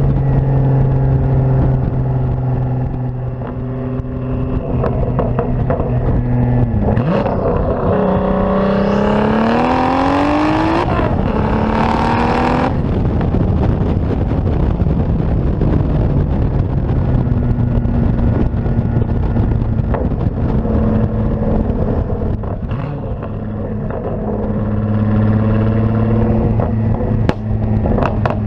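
Turbocharged VR6 engine and exhaust of a 2004 Volkswagen R32 running at a steady pitch, then accelerating hard with a rising pitch for about five seconds before cutting off sharply as the throttle closes, and settling back to a steady run.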